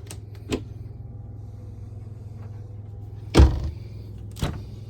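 Closet doors in an RV bedroom being handled: two light clicks, then a louder knock about three and a half seconds in and a smaller one a second later, over a steady low hum.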